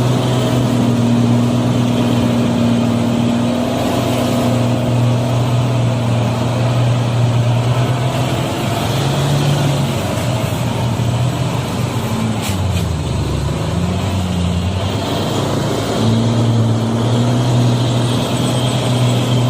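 Heavy truck engine running steadily, its note dipping and gliding back up about two-thirds of the way through, with a sharp click as it dips.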